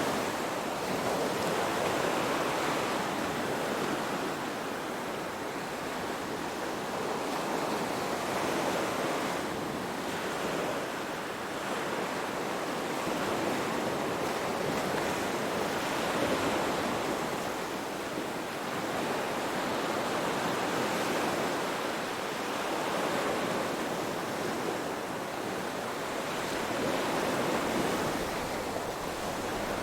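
Waves washing in: a steady rush of water that swells and eases every several seconds.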